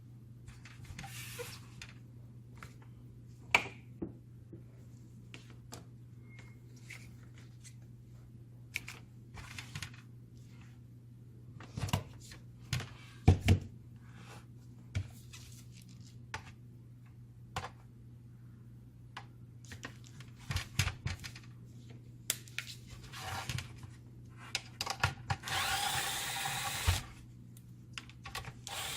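Scattered clicks and knocks of small plastic and metal parts being handled while a laser printer fuser unit is taken apart, over a steady low hum; near the end a small power tool runs for about two seconds.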